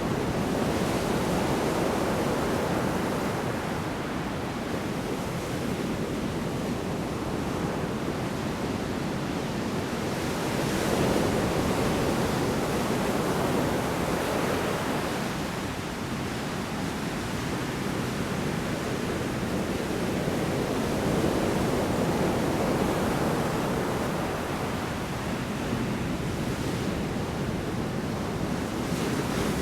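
Large storm waves breaking on a shore: a continuous rush of surf that swells and ebbs every few seconds.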